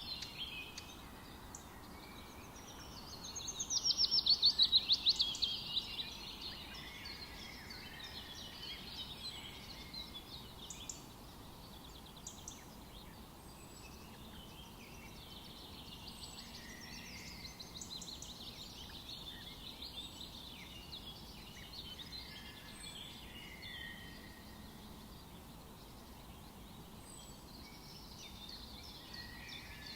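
Several songbirds singing and calling in a forest over a faint steady background hiss, with one loud rapid trill of fast repeated notes about four seconds in.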